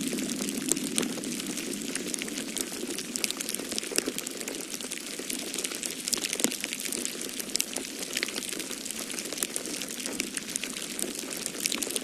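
Wood fire crackling in a fireplace, a steady run of sharp pops and snaps over a continuous hiss, with the low rushing of storm wind underneath.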